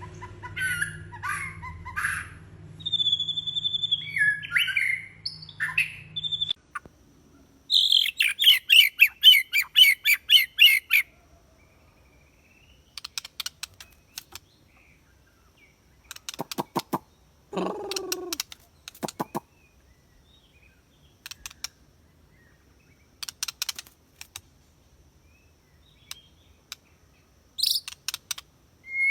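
Small songbirds chirping and singing: varied whistles and chirps at first, a loud, fast run of repeated notes about eight to eleven seconds in, then short clicking calls in scattered groups with quiet gaps between.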